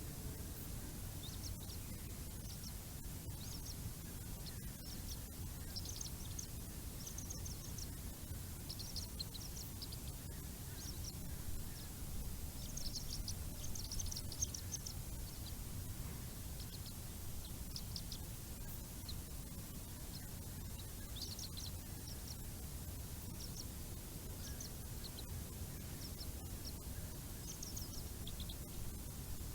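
High-pitched bird chirps in short clustered series, repeating on and off, over a steady low rumble.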